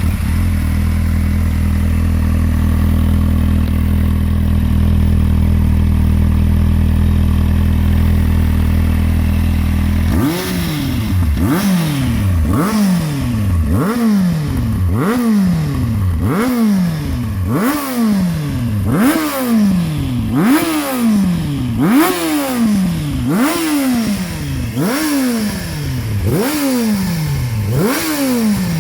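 Kawasaki Z750R's inline-four engine through a custom Max Torque Cans exhaust, idling steadily for about ten seconds. It is then revved in quick throttle blips about once a second, each rising sharply in pitch and falling back to idle.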